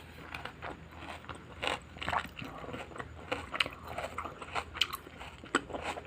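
Close-miked chewing of crunchy raw salad vegetables: irregular wet crunches and crackles, several per second.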